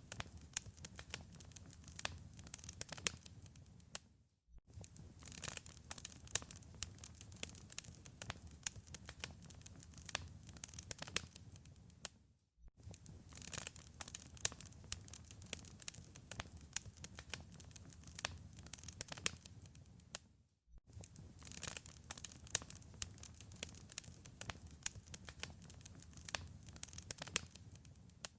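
Wood fire crackling in a fireplace: dense, sharp pops and snaps over a low rumble. The sound cuts out for a split second about every eight seconds.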